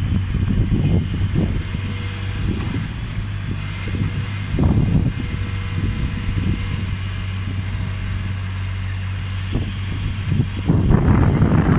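Mini excavator's engine running steadily, with irregular louder bursts as the machine works. It gets louder near the end.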